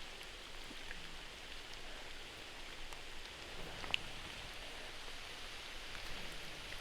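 Steady hiss of falling water, with one sharp tick about four seconds in.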